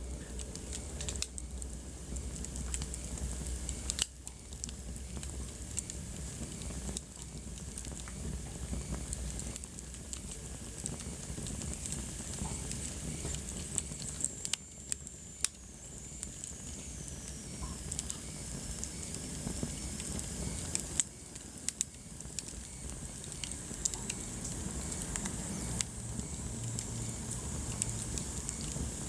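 Wood fire burning in a fireplace, crackling with frequent sharp pops over a low steady rumble. About halfway through, a faint high whistle slowly falls in pitch.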